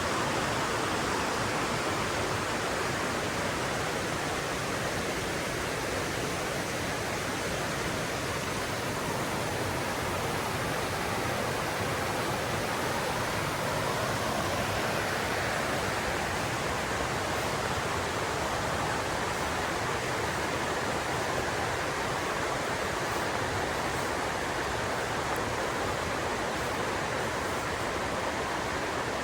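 Mountain river rushing over rocks: a steady, full hiss of flowing water with no breaks.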